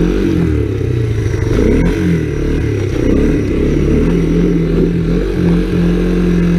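1985 Honda ATC 250SX three-wheeler four-stroke engines revving up and down while spinning donuts on ice. About four seconds in, the engine note steadies into a held, even pitch.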